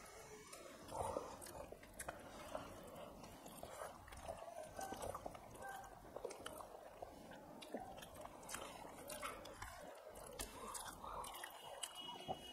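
Two people chewing and smacking their lips as they eat rice and fish curry with their fingers, with many small, scattered mouth clicks.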